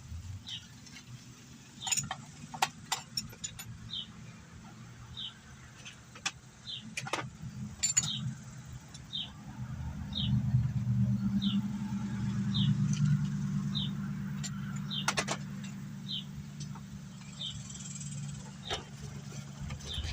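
A distant vehicle engine droning low, swelling about halfway through and easing off later, while a bird repeats a short high chirp about once a second. A few sharp clicks of tools and parts being handled.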